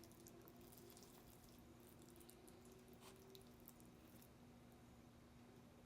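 Near silence with faint, wet clicks of a mouth chewing food through the first few seconds, over a steady low hum.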